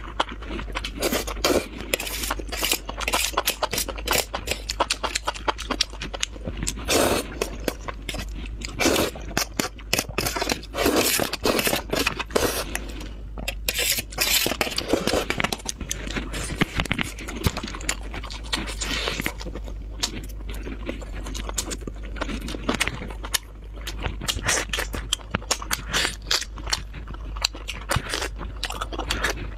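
Close-miked eating: wet chewing and mouth smacks with many small crackling clicks as sausage, enoki mushrooms and spicy noodles are eaten, over a steady low hum.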